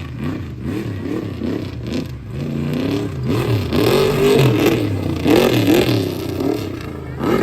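A truck engine revving hard, its pitch rising and falling over and over, loudest in the middle, with a sharp knock near the end.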